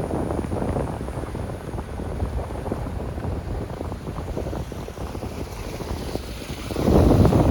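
Wind buffeting the microphone: a steady low rumble that swells into a louder gust near the end.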